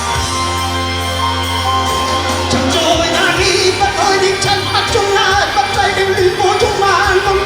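Live band playing a pop-rock song: steady held chords over a sustained bass, then about three seconds in a wavering vocal line with vibrato comes in over the band.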